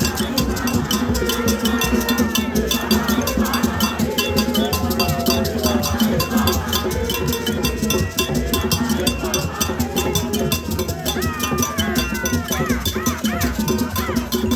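A cowbell or metal bell struck in a fast, steady beat, about six strikes a second, with a crowd of marchers singing and chanting along.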